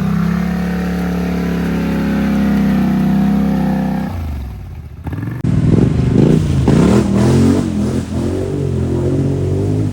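ATV engine running at a steady pitch, fading about four seconds in. About five seconds in the sound changes abruptly to a louder ATV engine revving hard, its pitch rising and falling repeatedly.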